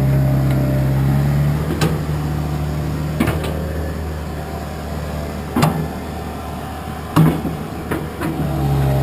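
Track hoe's diesel engine running steadily, easing off about two seconds in, with four sharp knocks over the engine.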